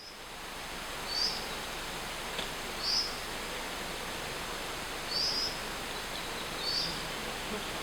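A small songbird repeating a short, high, slightly falling call about every one and a half to two seconds, over a steady background hiss of forest ambience.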